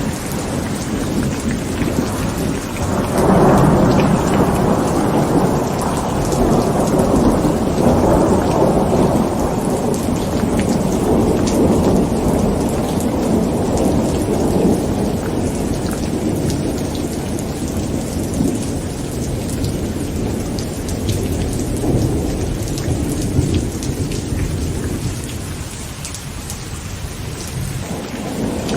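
Heavy rain falling on a tent, with a long roll of thunder that swells about three seconds in and slowly dies away over the next twenty seconds.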